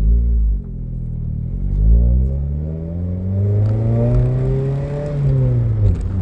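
Toyota Corolla four-cylinder engine accelerating under throttle, heard from inside the car, its pitch climbing steadily for several seconds, then dropping sharply near the end as the revs fall.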